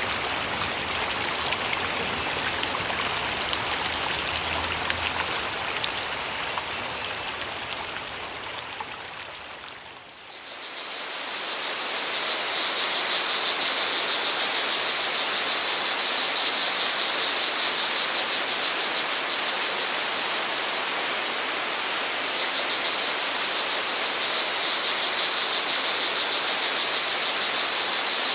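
Steady rushing water of a forest stream or waterfall fades out about ten seconds in. Another stretch of flowing water then fades in, with a high, rapidly pulsing insect trill from crickets over it that stops briefly about two-thirds of the way through.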